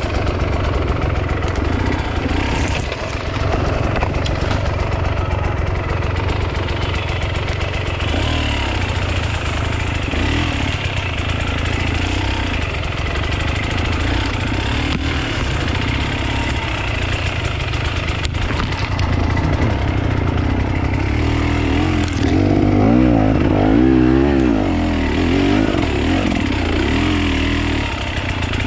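Off-road enduro motorcycle engine running and revving at varying speeds, with louder revs that rise and fall rapidly near the end.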